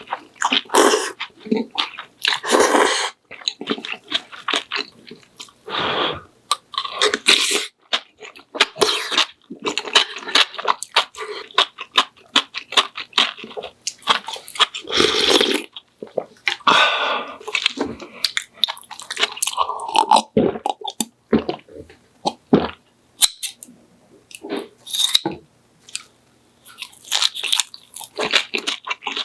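A person chewing and biting food in a close-miked mukbang, crunchy mouth sounds coming in irregular bursts with short pauses between.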